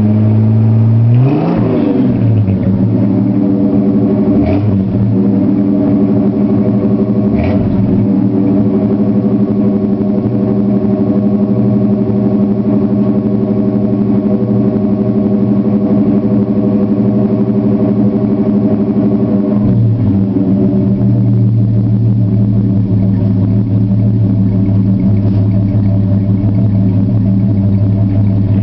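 Ford 300 cubic-inch inline-six running through a 40 series Flowmaster muffler, still warming up after a cold start. It gets one quick rev blip about a second in and two lighter blips a few seconds later, then idles steadily, settling to a lower idle about twenty seconds in.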